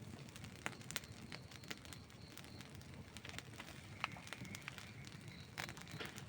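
Outdoor wood campfire crackling, with sharp pops scattered irregularly over a low steady rumble of burning, and a few louder pops standing out.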